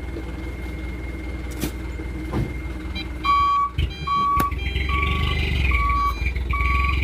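Dump truck's diesel engine running, then about three seconds in its reversing alarm starts: a single-pitch beep repeating roughly every three-quarters of a second as the engine picks up.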